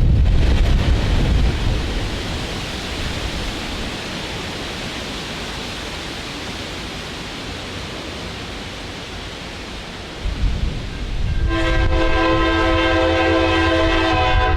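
Freight train rumble and wheel noise, fading over about ten seconds. Then a diesel locomotive's engine rumble comes up, and its multi-note air horn sounds a long held chord near the end.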